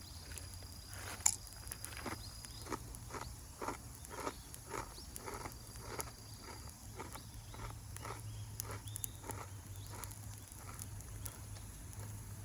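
A person chewing a crunchy snack, crisp crunches in a steady rhythm of about three a second that fade toward the end.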